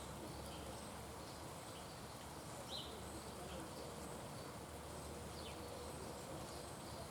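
Faint steady outdoor background noise with a few short, high bird chirps, one about three seconds in and a falling one about five and a half seconds in.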